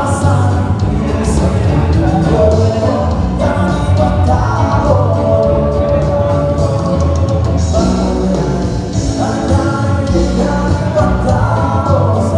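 Live band playing a rock-style song with a lead vocalist singing held, sliding notes over bass and drums, amplified through a PA system.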